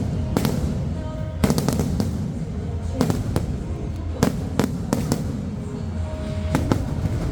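Aerial fireworks bursting overhead: about a dozen sharp bangs at irregular intervals, several in quick clusters, over music playing for the show.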